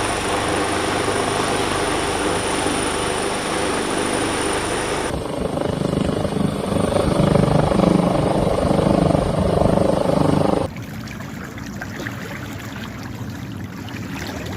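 Helicopter running steadily, its rotor and engine noise changing abruptly about five seconds in and again near eleven seconds, where the sound cuts between recordings.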